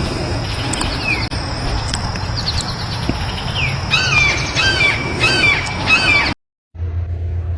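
Wild birds calling over a steady high-pitched note, with a quick run of about five repeated calls in the latter half. The recording cuts off suddenly near the end, and a low steady hum follows.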